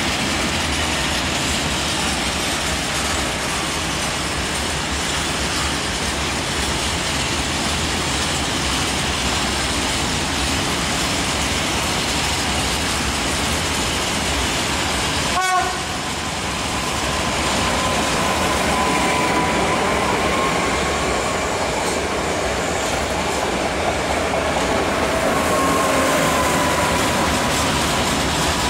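Loaded freight wagons rolling past with a steady rumble and clatter of wheels on rail joints. An electric multiple unit draws closer on the near track, and in the second half the sound grows louder with a faint electric whine over the rolling noise. There is a brief sharp sound about halfway through.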